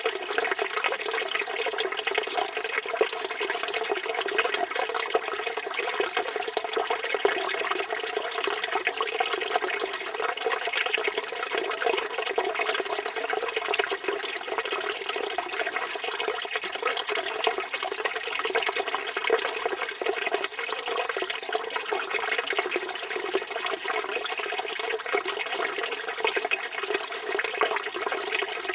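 Water from a village fountain's spout pouring steadily, a continuous splashing rush of running water.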